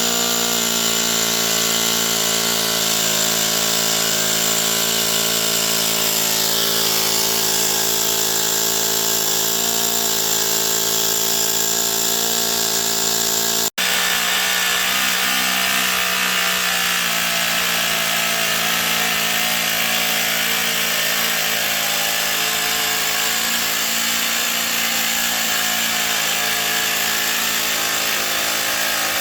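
Toyan L200 two-cylinder four-stroke model engine running steadily at a fast, even speed. There is a split-second dropout about fourteen seconds in, after which it runs on with a noisier sound.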